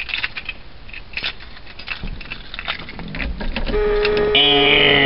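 Keys and switch clicks at the wheel of a 1972 Oldsmobile Vista Cruiser as the ignition is worked for a cold start. A steady electric tone comes on a little under four seconds in, and a louder whine joins it for about a second near the end.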